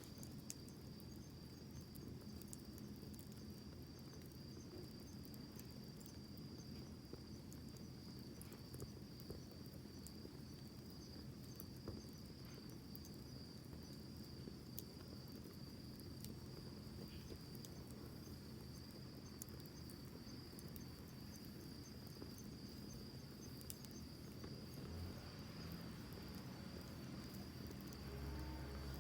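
A wood campfire crackling softly, with scattered sharp pops, under a steady high-pitched cricket trill. A soft low rumble swells near the end.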